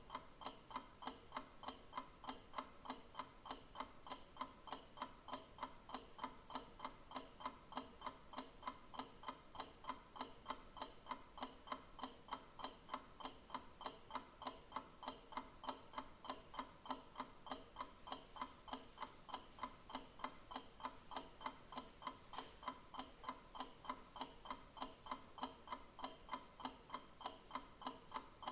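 Clock ticking steadily, with sharp, evenly spaced ticks.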